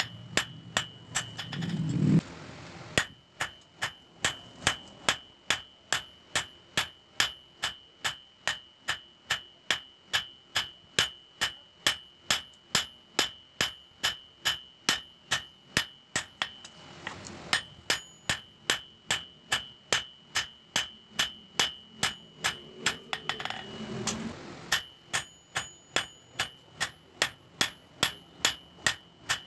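Hammer blows on steel against an anvil, forging a knife from bearing steel. They come steadily at about two strikes a second, and each blow carries a ringing tone.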